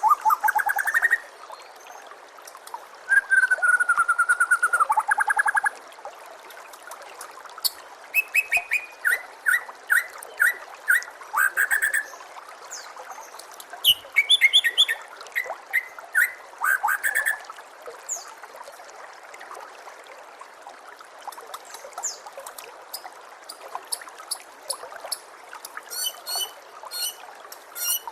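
White-rumped shama singing in separate phrases: whistled notes, fast trills and strings of repeated notes with pauses between, and rapid high chattering near the end. A steady soft trickle of water runs underneath.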